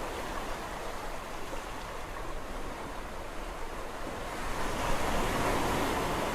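Sea waves washing on the shore: a steady rush of surf that swells louder about four seconds in as a wave comes in.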